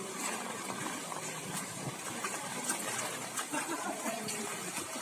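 Flooded-street ambience: a vehicle engine running with a low hum that fades about two seconds in, over water sounds and scattered small knocks.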